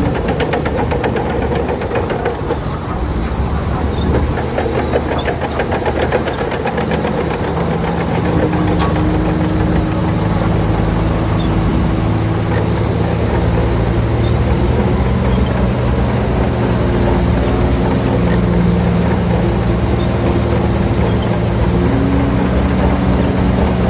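Heavy diesel engine of an earthmoving machine running under steady load, with a fast, even clatter during roughly the first third that gives way to a steadier drone whose pitch shifts slowly.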